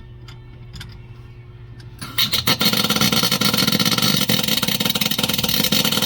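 MIG welder arc crackling steadily for about five seconds, starting about two seconds in, as a washer is welded onto a broken head bolt of a Ford flathead V8. Before it, only a low hum.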